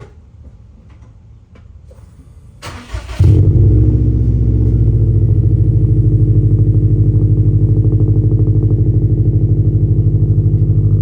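Car engine cold-started: a brief burst of cranking, then the engine catches almost at once about three seconds in and settles into a loud, steady idle with an even low pulse.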